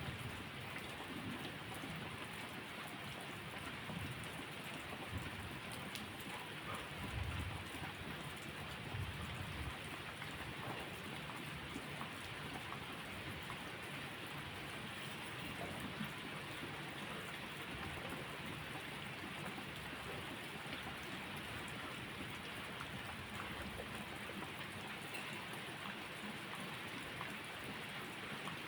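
Steady heavy rain falling on surfaces, a dense even patter, with low rumbles of distant thunder in the first several seconds.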